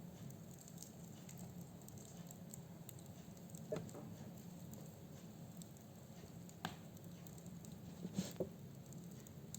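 Firewood burning in a fireplace: scattered sharp crackles and pops over a low, steady burning rush, with a few louder snaps about four, seven and eight seconds in.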